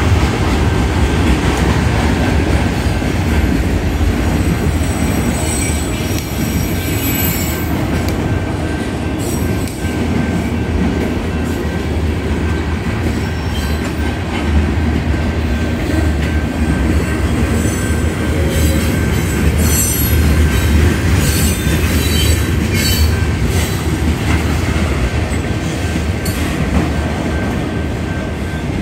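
Union Pacific freight train cars (autoracks and a tank car) rolling steadily past at close range, with a continuous rumble of wheels on rail. High-pitched wheel squeal rises in patches, about a quarter of the way in and again past the middle.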